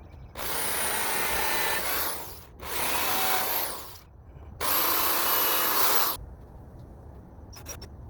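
Power drill pre-drilling holes for screws, run in three bursts of one to two seconds each, its motor whine rising as it spins up and dropping as it stops.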